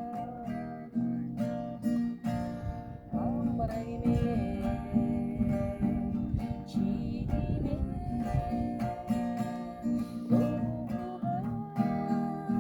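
Music: a strummed acoustic guitar keeps a steady rhythm, under a held melody line that slides between notes.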